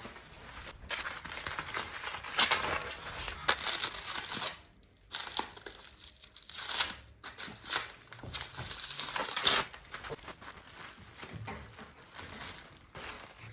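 Packaging being pulled off a new bicycle: irregular crinkling and tearing in bursts, with short pauses in between.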